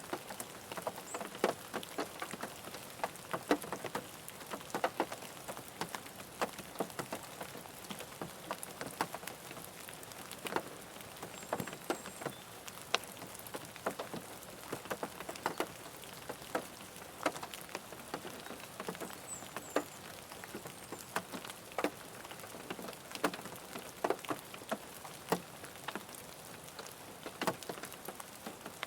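Rain falling on a car roof, heard from inside the car: a steady patter with heavier drops landing as scattered sharp taps.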